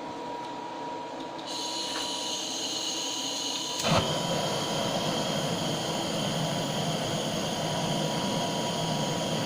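Butane blowtorch flame hissing steadily while reheating the top of a tin-antimony-silver solder ingot to close a small hole. About four seconds in there is a click and the hiss grows louder.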